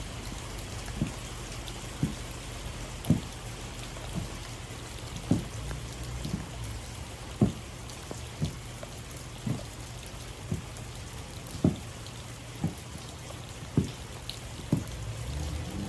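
Heavy stomping footsteps on a floor, about one thud a second, over a steady low hum.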